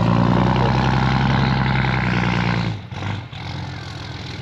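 A motor engine running loud and steady at one pitch, cutting off abruptly about two-thirds of the way through, leaving a quieter background rumble.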